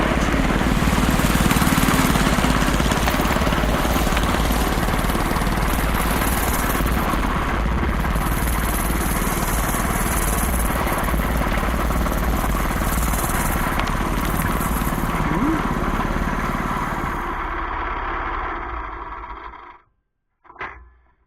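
Home-built go-kart's small gasoline engine running under way, with wind noise on the microphone. It fades out near the end and stops, followed by one brief sound.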